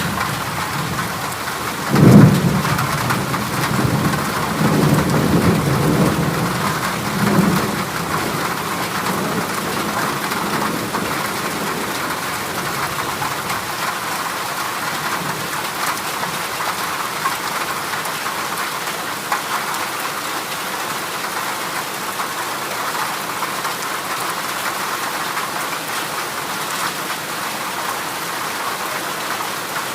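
Heavy rain drumming steadily on a corrugated zinc roof. About two seconds in, a clap of thunder breaks out and rumbles on in swells for several seconds before fading back into the rain.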